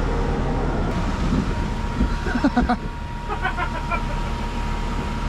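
An engine idling steadily in a low, even rumble, most likely the vehicle giving the jump start, with a steady high-pitched tone running over it.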